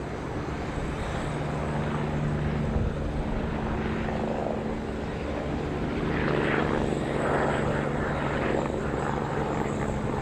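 Eurocopter UH-72A Lakota helicopter running, with a steady low hum from its turbines and rotor that grows somewhat louder about six seconds in.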